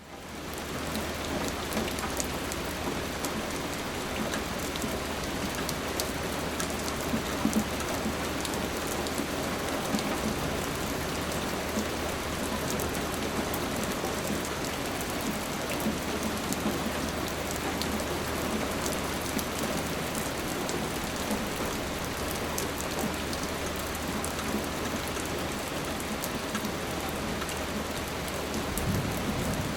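Steady rain falling: a dense, even hiss of rain with scattered sharper drop ticks, over a faint low hum. It fades up from near silence in the first second.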